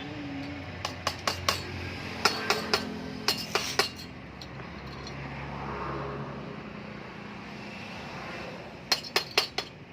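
Sharp metal-on-metal clinks in four quick clusters of three or four, as metal parts or tools are handled, with a low steady hum underneath.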